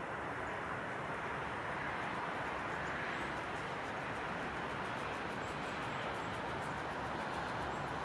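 Steady rushing outdoor background noise with no distinct events, with a few faint, short, high chirps from a bird late on.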